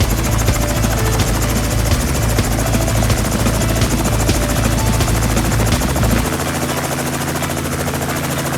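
Robinson R44 helicopter in flight: a steady, loud drone of rotor and piston engine. About six seconds in, the deepest part of the sound drops away.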